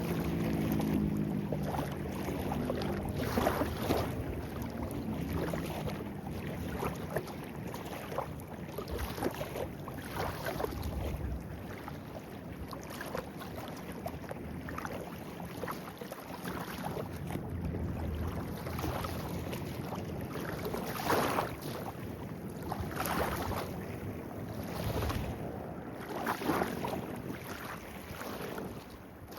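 Shallow stream flowing over rocks, a steady rush of water with irregular small splashes and gurgles.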